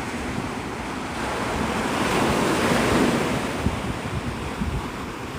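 Gulf surf breaking and washing up the beach, swelling to a peak about halfway through and then easing off, with wind buffeting the microphone.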